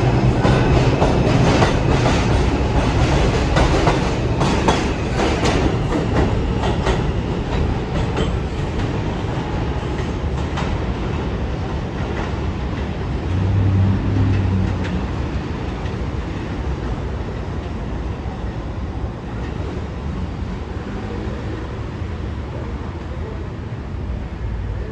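New York City R142-series subway train running between stations, heard from inside the car. Wheels click over rail joints through the first ten seconds or so, then the ride smooths out and slowly gets quieter, with a short low motor hum in the middle.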